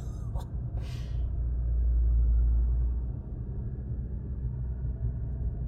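Low rumble of a car's engine and road noise heard from inside the cabin while driving, swelling for a second or two partway through, with two short hisses near the start.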